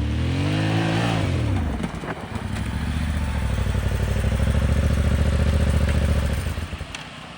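Yamaha Ténéré 700's parallel-twin engine revs up and falls back over the first two seconds. It then runs at a steady low note and drops away about six and a half seconds in.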